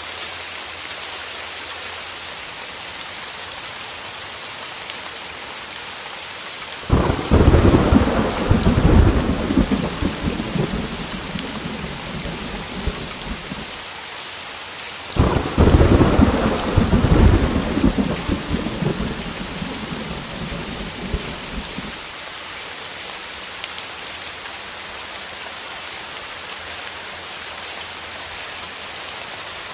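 Heavy rain falling steadily, with two rolls of thunder: one breaking suddenly about a quarter of the way in, the second about halfway, each rumbling low and fading away over several seconds.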